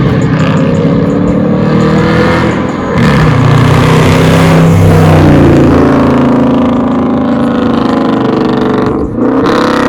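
Dodge Charger R/T's 5.7-litre Hemi V8 pulling hard through the gears, the engine note dropping at a shift about three seconds in and again about nine seconds in.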